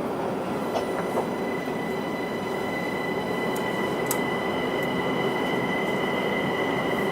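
Linimo maglev train running, heard inside the car: a steady running noise with a high electrical whine of several steady tones that sets in about a second in, and a few faint clicks.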